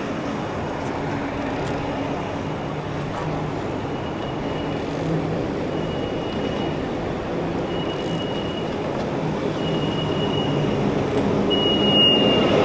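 City street traffic heard from a moving bicycle: a steady rush of road and wind noise with a low engine hum, and a thin high squeal that comes and goes about five times, loudest near the end.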